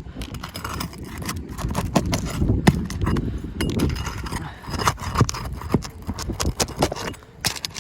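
Irregular knocks, clicks and scraping of roof shingles being handled and worked loose by hand and tool.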